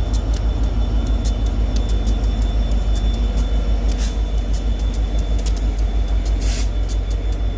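A train rolling past: a steady low rumble that pulses evenly, with many short sharp clicks throughout.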